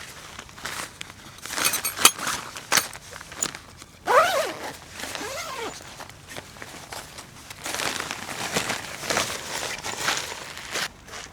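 Handling noises: rustling, crinkling and light knocks of gear being moved about, with a short squeak about four seconds in that falls in pitch.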